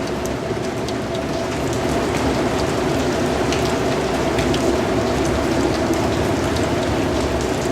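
Steady rain falling and pattering on a surface, with scattered individual drops ticking through the steady hiss.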